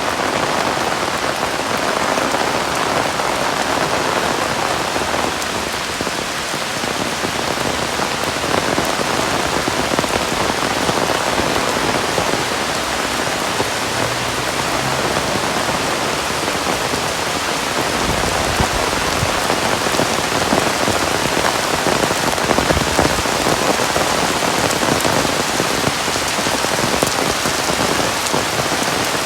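Heavy rain falling steadily. A low rumble comes and goes a little past the middle.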